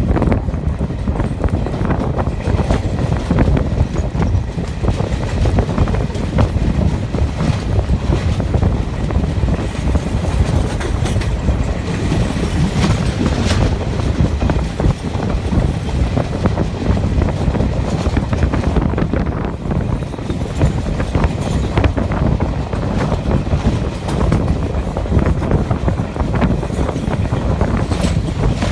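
Passenger express train running over a river bridge, heard from on board: a steady, loud rumble of wheels on rail with many quick clicks and rattles.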